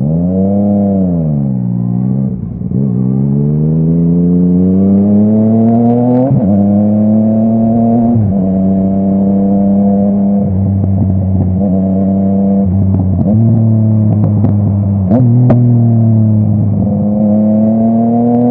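Yamaha MT-09 three-cylinder engine through a full Akrapovic exhaust, pulling through the gears. The pitch climbs under throttle, drops sharply at each upshift about six and eight seconds in, then holds steady in stretches. A few sharp cracks come through near the middle and again about fifteen seconds in.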